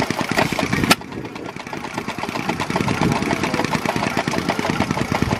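Antique hit-and-miss stationary engine running with a rapid clatter, and a single sharp pop about a second in.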